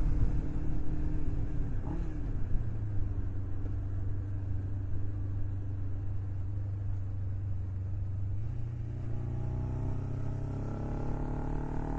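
Sport motorcycle engine running at highway speed under heavy low wind rumble. The revs dip briefly about two seconds in and recover, then hold steady before climbing from about two-thirds of the way through as the bike accelerates.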